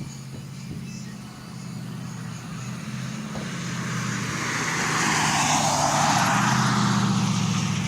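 Mercedes-AMG C63's exhaust running with a steady low drone, growing louder over the first five seconds as a broad rushing noise builds and then holds.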